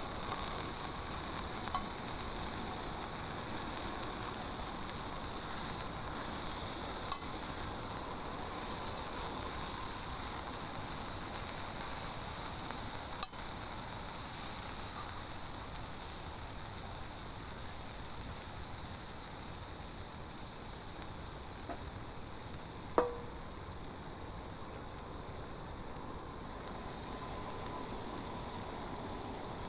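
Steak sizzling on a hot iron griddle over a wood fire: a steady high hiss that eases slightly in the second half, broken by a few sharp pops and one short metallic clink about twenty-three seconds in.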